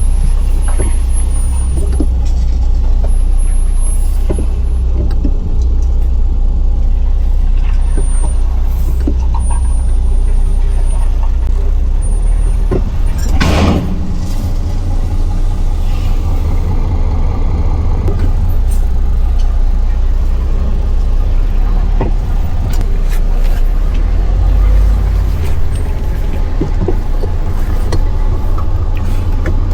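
Heavy truck's diesel engine running with a steady low rumble while the truck is manoeuvred slowly, with one brief burst of noise about halfway through.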